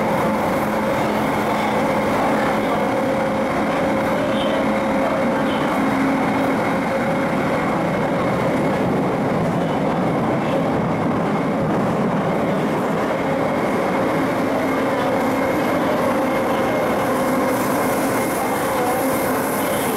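Refurbished MLR (Metro-Cammell) electric multiple unit running at a steady speed: an even rumble of wheels on track with steady humming tones from the running gear throughout.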